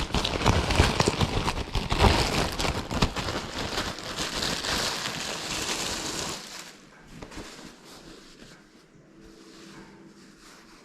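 Rustling and crinkling from material being handled, full of small crackles. It is loud for about six seconds, then drops to a faint rustle.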